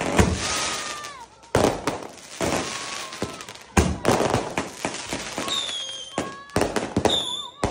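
Ground-launched aerial fireworks firing and bursting: a series of sharp booms, each trailed by a fading hiss, coming about two seconds apart and then in quicker succession near the end, with a few brief thin whistles among them.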